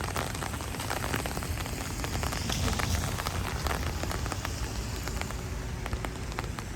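Rain falling steadily, with many individual drops striking close by over a low rumble.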